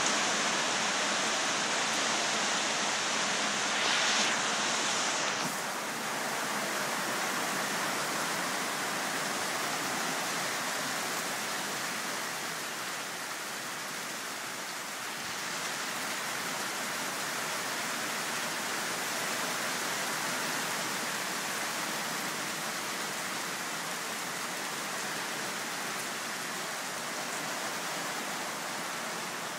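Steady heavy rain falling, an even constant hiss that shifts slightly in tone about five seconds in.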